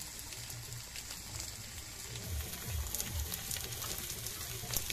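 Goat offal frying in an iron kadai over a wood fire: a steady sizzle, with scattered crackles that grow more frequent about halfway through.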